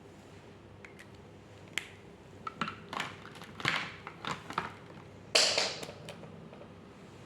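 Hands handling drawing materials: a string of light taps and clicks, then a short scratchy rustle about five seconds in.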